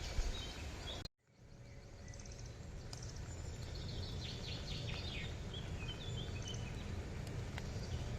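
Outdoor woodland ambience: a steady low background rush with small birds chirping, most plainly from about three to five seconds in. The sound cuts out for a moment about a second in and fades back up.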